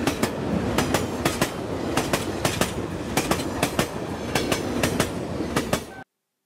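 Train running over rail joints: a steady rumble with a regular clickety-clack of wheel clicks, many coming in close pairs. It cuts off suddenly shortly before the end.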